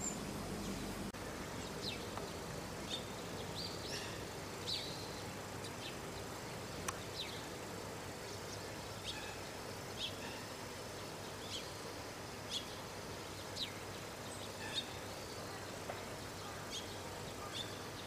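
Outdoor ambience: small birds chirping, short high calls dotted irregularly about once a second, over a steady low background hum.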